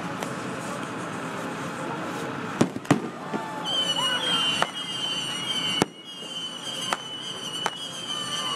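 Fireworks show, with shells bursting in sharp bangs several times a second or so apart. From about halfway a high, steady whistle sounds under the bangs.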